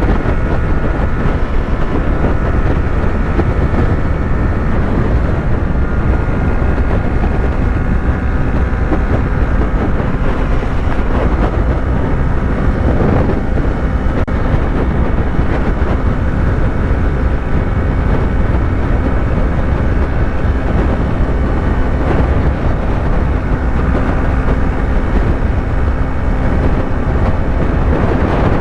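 Yamaha YZF-R3's 321 cc parallel-twin engine running at a steady highway cruising speed, holding an even pitch, under a heavy steady rumble of wind and road noise.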